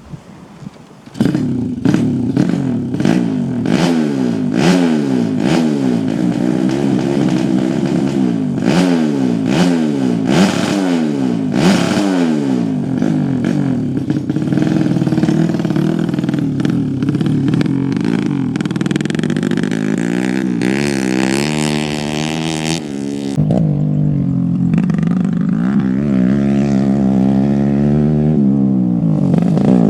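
Off-road motorcycle engine on a grasstrack practice run, starting loud about a second in, its pitch climbing and dropping about once a second as the throttle is worked, then running more steadily with slower rises and falls.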